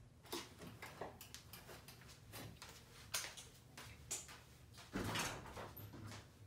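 Scattered knocks and clicks of someone moving about and handling things, with a louder scraping, door-like sound about five seconds in.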